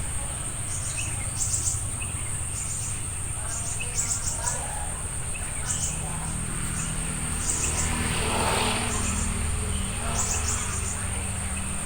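Insects keep up a steady, high-pitched whine with short chirping pulses repeating irregularly over it, while a few faint bird chirps come through. A brief rushing swell rises and fades about eight seconds in.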